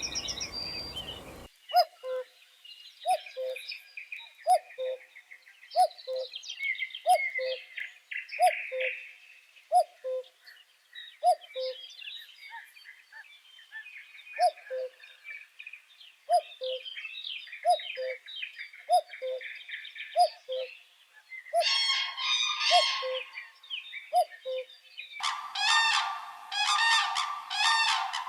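Birdsong: a bird repeats a two-note call, a higher note dropping to a lower one, about every second and a half, while other small birds chirp and twitter. Near the end the sound cuts to loud, repeated honking calls.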